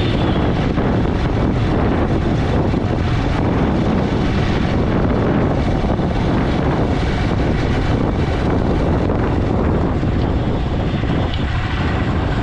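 Motorcycle riding at speed: a steady engine drone mixed with wind rushing over the microphone.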